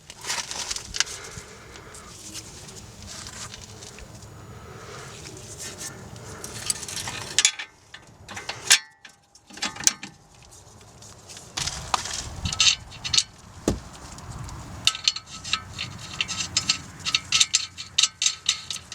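Metal tools and car parts clinking, knocking and rattling during hand work, with a brief pause near the middle and a quick run of clicks near the end.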